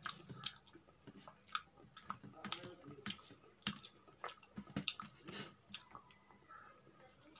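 Close-up wet chewing and lip-smacking of a person eating rice and soft arbi (taro) curry by hand, heard as irregular short smacks and clicks.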